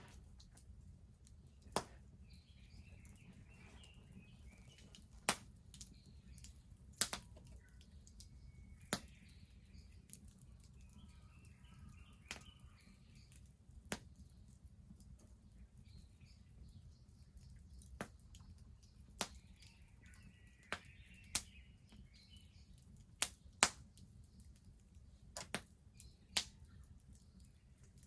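Wood bonfire crackling, with sharp pops at irregular intervals over a low steady rumble. Small birds chirp faintly in three short spells.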